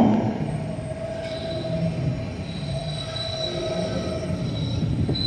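PATH train wheels squealing: thin steady high-pitched tones over the low rumble of the rolling train, getting louder toward the end.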